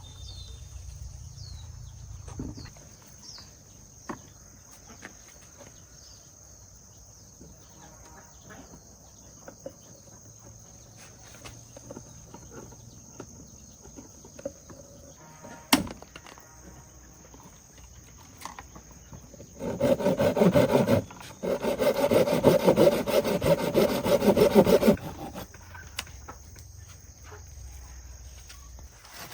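Rough, rhythmic scraping like sawing, lasting about five seconds from about twenty seconds in, with a short break a second after it starts. Underneath is a steady high insect-like drone, a few short chirps near the start, and a single sharp click.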